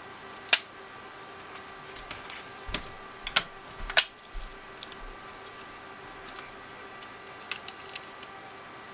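Irregular sharp clicks and taps of small hard plastic and metal parts of an opened TI-84 Plus calculator being handled, with a cluster of them in the middle and a pair near the end, over a faint steady hum.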